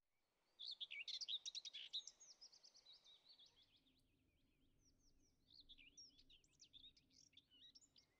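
Faint bird song: quick high chirps and twittering notes in two bouts, the louder starting about half a second in and a second near the end.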